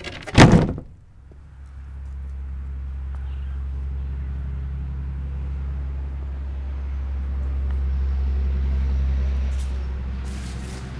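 A loud knock in the first second, then the steady low rumble and running noise of a Taylor-Dunn 36-volt electric utility truck on the move, building to a peak about nine seconds in and easing off near the end.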